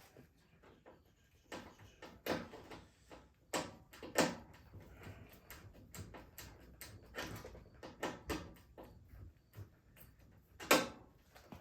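Irregular knocks, clicks and short scrapes of metal and plastic parts being handled and worked loose while a front-load washing machine is taken apart. The louder knocks come about two and four seconds in and again near the end.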